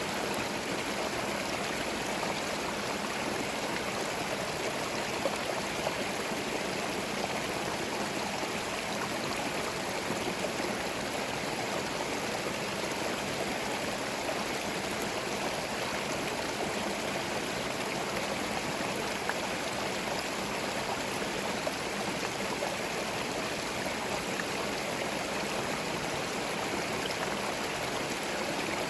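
Small forest stream flowing, a steady rush of water over stones with light trickling and gurgling.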